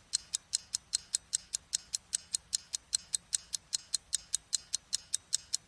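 Rapid, perfectly even ticking, about five sharp, high-pitched ticks a second, like a clock or metronome.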